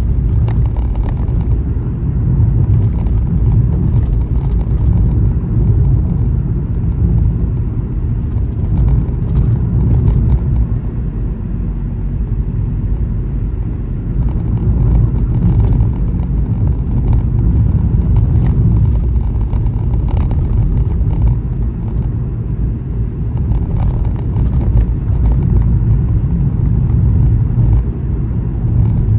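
Car driving on a highway: a steady low rumble of road and engine noise that slowly swells and eases, with a few faint ticks.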